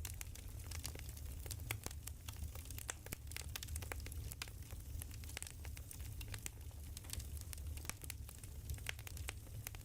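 Wood fire crackling: a dense stream of irregular snaps and pops over a steady low rumble.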